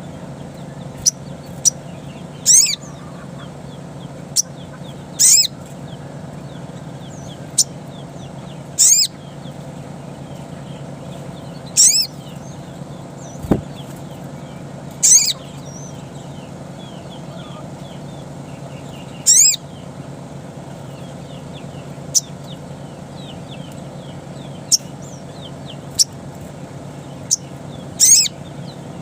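Sogon (sogok kontong) birdsong: sharp, high call notes, each a quick falling sweep, repeated about every three seconds with fainter chirps in between. A steady low hum runs under it, and there is one dull knock about halfway through.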